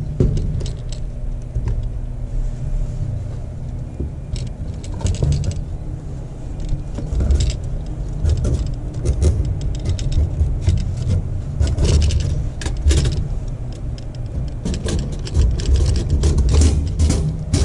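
Metal parts clinking and rattling as the fuel pump assembly is handled and fitted into the fuel tank, over a steady low rumble. The clinks come thicker in the second half.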